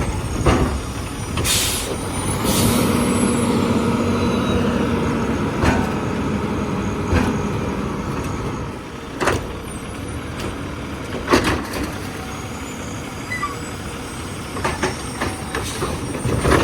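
Garbage truck running, with two short hisses of air near the start, a steady hum for a few seconds, and several sharp clanks.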